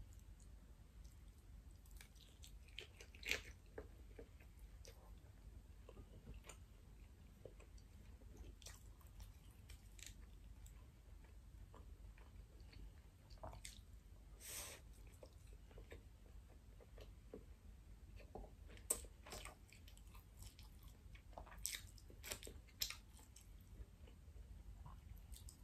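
Faint, close-miked chewing of soft pan-seared salmon and rice, with scattered small wet mouth clicks and smacks, a few sharper ones about 3 s and 19 s in.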